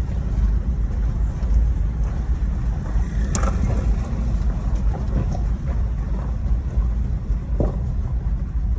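Steady low rumble of a car on the move, with road and wind noise and a couple of faint ticks.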